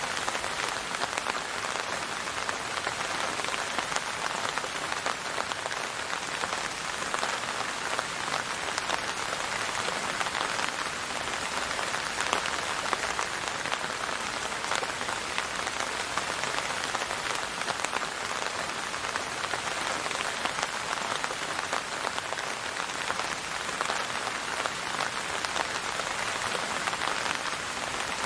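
Steady rain falling on a surface, a dense even patter of many drops with no change in strength.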